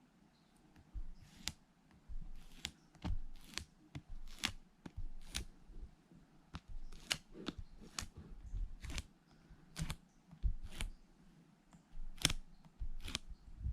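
Sharp clicks and taps from hands handling small hard objects, irregular and about one a second, some in quick pairs.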